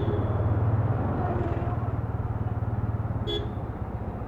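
Motorcycle engine running steadily beneath the rider, easing off slightly, with a short horn beep at the start and another about three seconds in.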